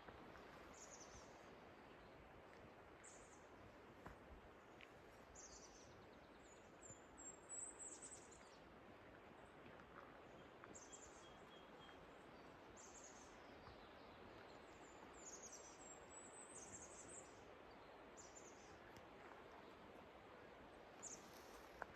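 Quiet forest ambience with a steady faint hiss and small birds giving short, high-pitched calls every second or two, some of them sweeping downward.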